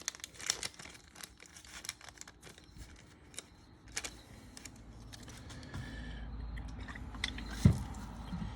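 Crinkling and rustling of a small packet of rebuild-kit O-rings as it is handled and opened, with many quick crackles. Near the end there is a low rumble and a single sharp knock.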